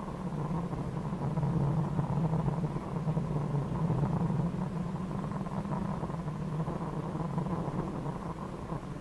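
Rally car engine droning steadily at speed on a gravel stage, heard from inside the stripped cabin.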